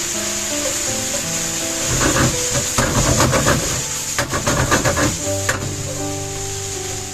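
Stir-frying rice noodles in a pan over background music: sizzling, with a stretch of quick, irregular clatter and scraping from the cooking utensils from about two seconds in until about five and a half seconds in.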